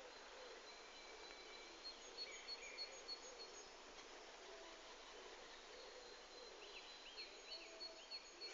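Faint dawn birdsong from several birds in a pine forest: thin high notes repeating throughout. Near the end comes a run of about five squeaky up-and-down notes, like a squeaky gate, from a great tit.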